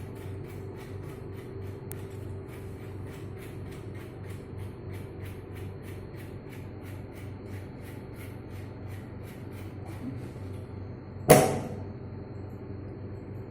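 Steady mechanical hum with fast, even ticking, about four ticks a second, which stops about ten seconds in; a single loud knock follows about a second later.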